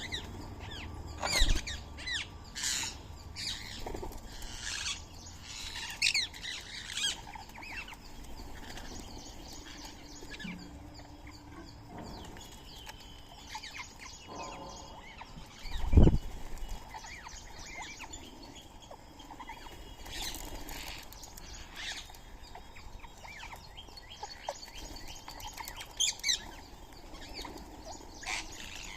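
Birds chirping and calling in many short, sharp notes, with wings flapping now and then. A single low thump about 16 seconds in is the loudest sound.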